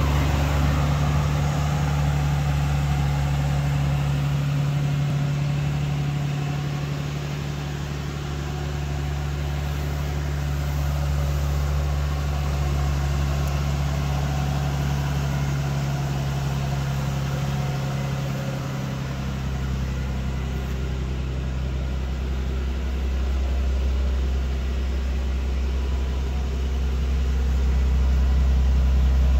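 Nissan Skyline R34 25GT-T's RB25DET NEO turbocharged straight-six idling steadily. Its deep low note grows stronger about two-thirds of the way through.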